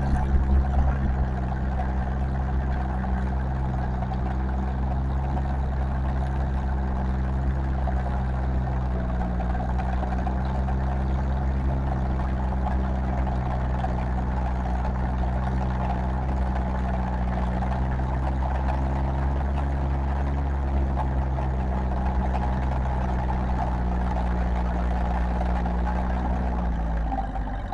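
Tractor engine running hard at a steady, held speed through a pull, its pitch dropping near the end as it throttles back.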